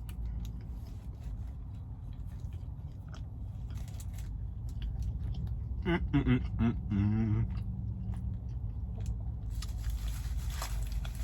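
Close-up chewing and biting into a McDonald's burger, with scattered small wet clicks over a steady low hum. About six seconds in there is a brief wavering vocal sound from the eater.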